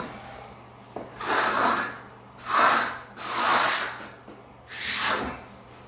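Four scraping strokes of a float over dry-pack shower pan mortar, each about half a second long, as the surface is smoothed.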